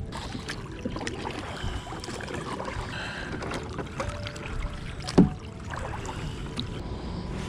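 Small knocks and rustles of gear being handled in a kayak, with one loud thump against the boat about five seconds in.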